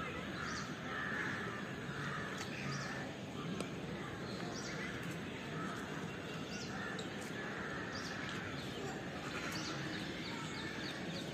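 Birds calling in the surrounding trees: repeated short caws and thin high chirps over a steady outdoor background.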